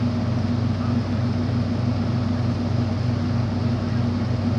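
An engine running steadily: a low, even hum with a regular pulse and no change in speed.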